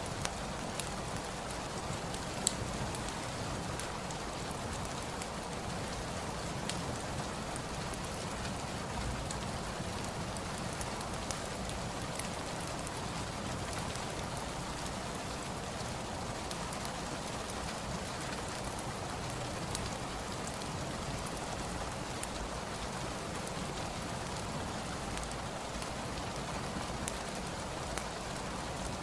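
Steady rain falling, with occasional sharp crackles and pops from a fireplace.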